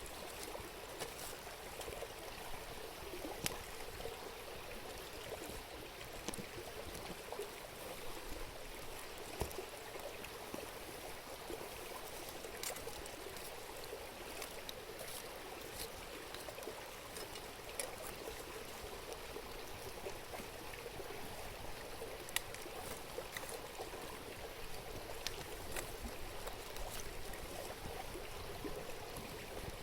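A river babbling steadily, with sharp pops and crackles from a wood campfire scattered through it.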